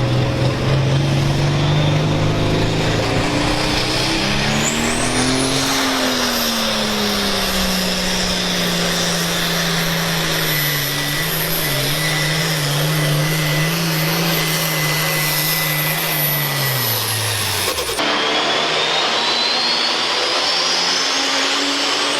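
International Harvester pulling tractor's engine running hard, its pitch climbing about five seconds in and then holding steady before falling away sharply near the end. A sudden cut follows to a different engine sound with a rising high whine.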